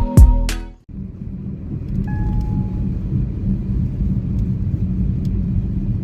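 Background music ends about a second in, followed by a steady low rumble.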